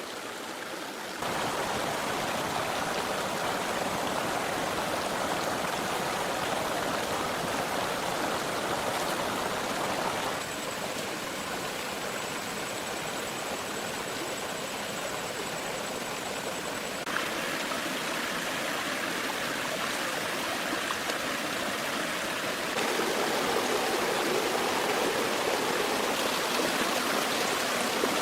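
Stream water flowing with a steady rush, its tone and loudness shifting abruptly a few times.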